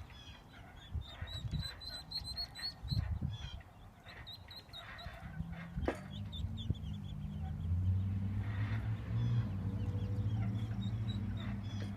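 Short, high bird-like calls repeating through the first half, with scattered calls later. A low steady hum sets in about halfway through and keeps going. There is a single sharp click near the middle.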